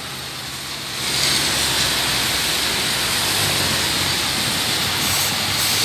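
Steady rushing of rain and car traffic on a wet avenue, growing louder about a second in, with a low engine hum underneath.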